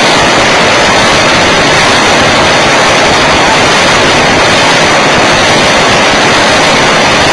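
Loud, steady, distorted rushing noise of a nitro RC plane's glow engine and the wind, picked up by a camera mounted on the plane.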